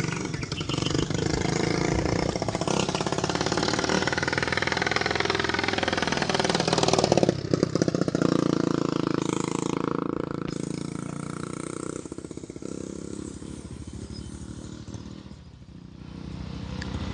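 A small petrol engine running. It climbs in pitch and loudness to a peak about seven seconds in, fades away over the next several seconds, then grows louder again near the end.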